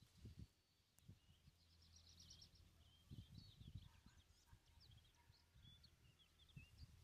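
Near silence with faint songbirds chirping: a short rapid trill about two seconds in, then scattered chirps, over soft low thuds.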